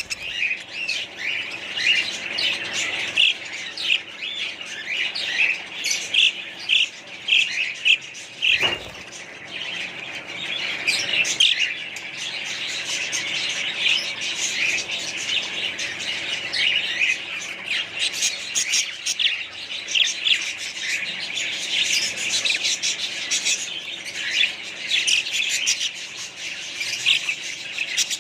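A flock of budgerigars chattering: many overlapping high chirps, warbles and squawks in a continuous dense chorus.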